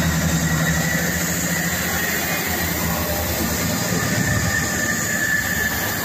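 Great Western Railway diesel multiple unit departing, its carriages rolling past at close range: a steady engine drone and rail rumble, with a thin high whine that comes and goes.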